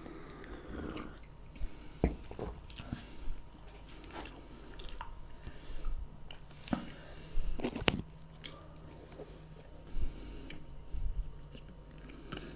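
Close-miked chewing of gingerbread (pryaniki): soft, irregular mouth clicks, smacks and small crunches.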